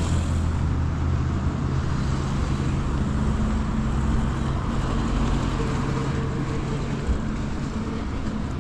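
Motor vehicle engine running steadily with road noise, its low hum fading about seven seconds in.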